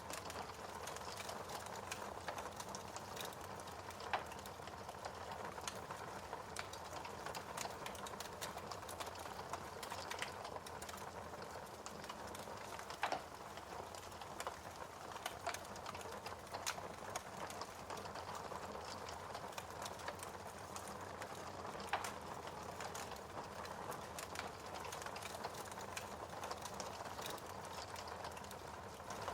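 Wood fire burning in a fireplace: steady crackling over a soft hiss, with irregular snaps and a few louder pops.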